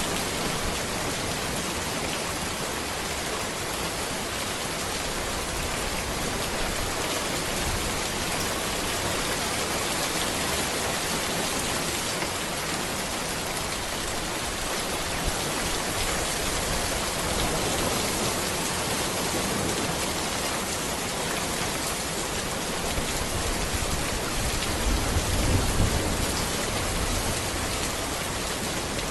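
Steady rain falling on a road, a dense even hiss. A low rumble swells briefly near the end.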